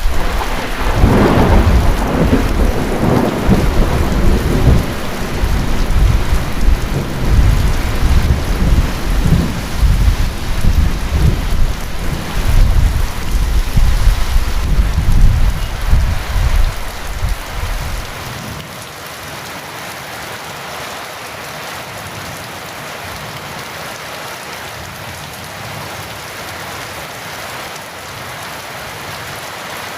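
Heavy rain falling with a long, loud thunder rumble that dies away about eighteen seconds in, leaving only the steady hiss of the rain.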